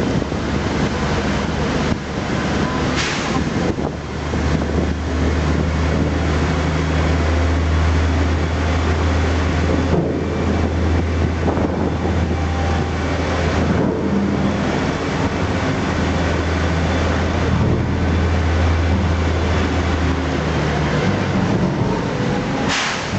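Tour tram running, a steady low drone under constant rumbling noise, with a short hiss about three seconds in and another near the end.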